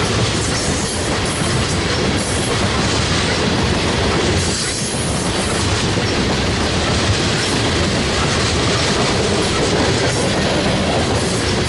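Freight train cars rolling past at close range: a steady, loud noise of steel wheels running on the rails.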